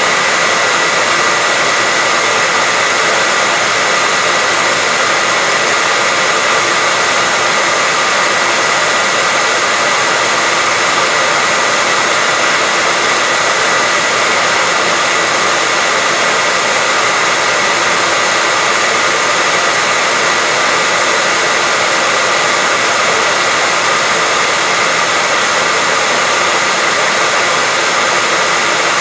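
Electric hair dryer running steadily, a constant loud blowing whoosh with a fixed motor whine, played continuously as white noise to lull a baby to sleep.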